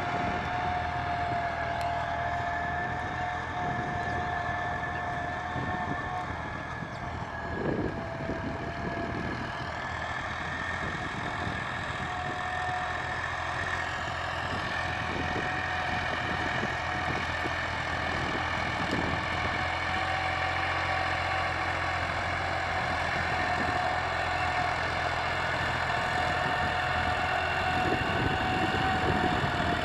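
Tractor engine running steadily with an even hum.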